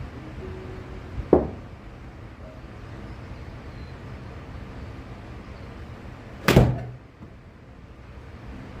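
Two thumps about five seconds apart, the second louder with a short low ring after it, over a steady low hum.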